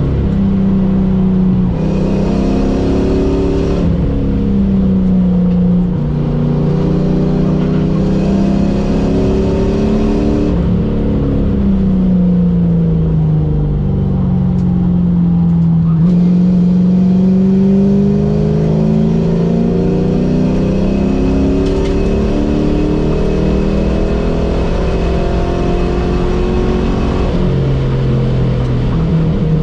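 Car engine heard from inside the cabin, driven hard at track pace over road and wind noise. Its pitch climbs and drops sharply at gear changes about two seconds in and near the end, and sinks slowly around the middle while the car slows for a corner, then rises again.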